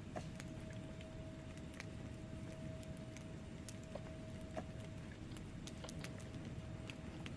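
Wood fire burning in a fireplace: irregular sharp crackles and pops from the logs over a low, steady rumble of flame.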